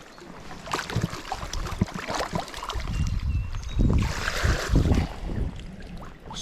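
Stream water splashing and sloshing with many small knocks and clicks, as a hooked trout is brought in, while wind rumbles on the microphone, heaviest past the middle.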